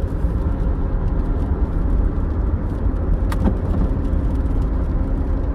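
Steady low rumble of road and engine noise inside a moving car's cabin, with a single brief click about three seconds in.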